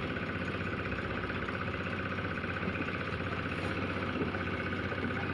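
Cement mixer's engine running steadily at a constant speed, with a fast, even pulse.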